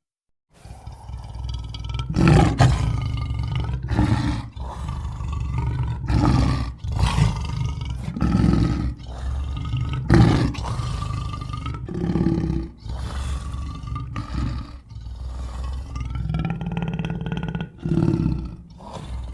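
A series of deep, rough roars, one every second or two, over a continuous low rumble.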